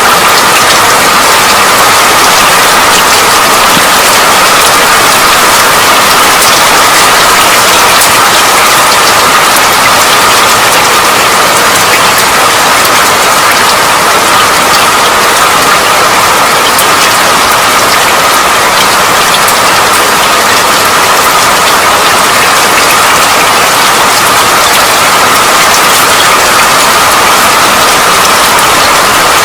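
Steady rain, a loud, even hiss of rainfall with many fine drop ticks, unchanging throughout.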